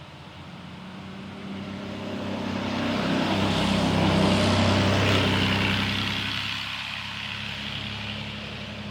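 A vehicle driving past, its engine and tyre noise swelling to a peak about halfway through and then fading away.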